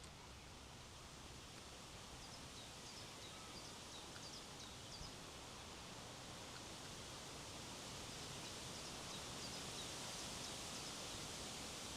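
Wind blowing steadily, growing a little louder in the second half, with faint high bird chirps scattered through it.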